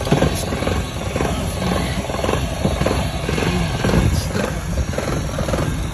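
Lexus VVT-i engine idling rough, a steady low rumble that wavers in loudness; it still won't idle well despite newly changed parts.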